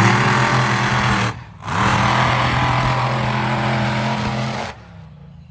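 Monster truck engines at full throttle racing off the start line, a loud steady roar. It dips out briefly about a second in, comes back, and cuts off suddenly near the end.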